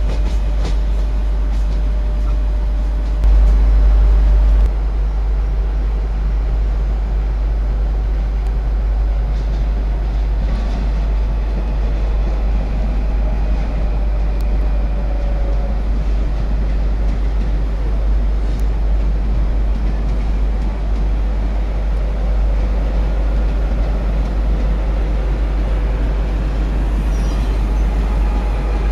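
Electric passenger trains rolling slowly through the station tracks: a steady rumble of wheels on rails, with faint wavering whines now and then. A heavy low rumble on the microphone gets briefly louder about three seconds in.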